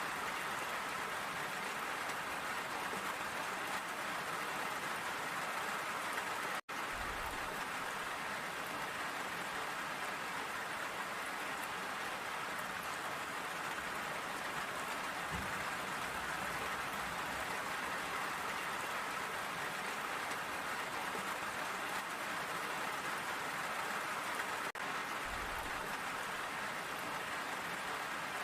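Steady rain falling, an even hiss with no let-up, broken only by a split-second dropout about six and a half seconds in.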